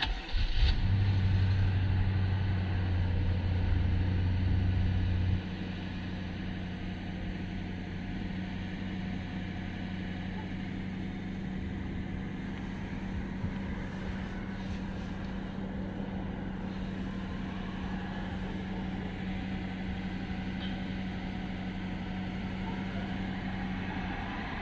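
BMW car engine starting: the starter catches about half a second in, the engine runs loudly at a raised start-up idle for about five seconds, then drops abruptly to a quieter, steady idle.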